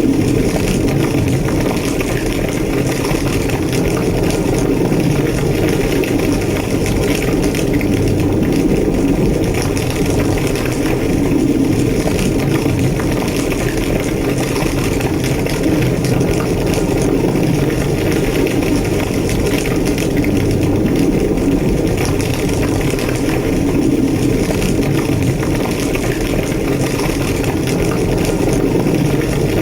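A large structure fire burning, a steady low roar with crackling throughout.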